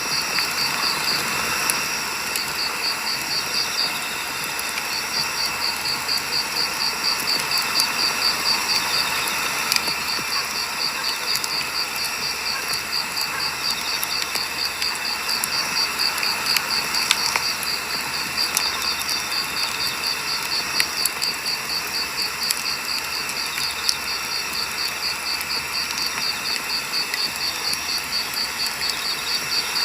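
Burning firewood: a steady hiss with scattered sharp crackles and pops. Behind it an insect, cricket-like, chirps in a rapid even pulse, pausing briefly a few times.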